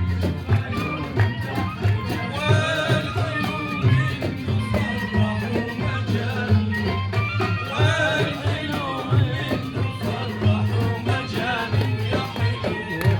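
Live band performing an Iraqi folk song, with a steady low drum and bass beat and a wavering melody line, likely the singer's voice, rising over it a few times.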